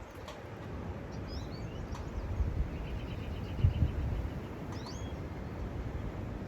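Small birds chirping in short rising calls, with a buzzy trill in the middle, over a steady rush of wind and rain as a derecho storm arrives.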